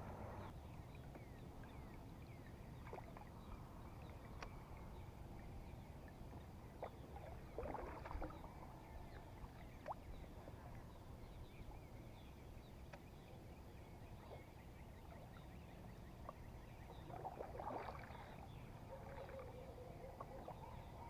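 Faint water and kayak sounds on a calm lake over a low steady rumble, with a few light clicks and two brief splashy bursts, about eight seconds in and again near the end.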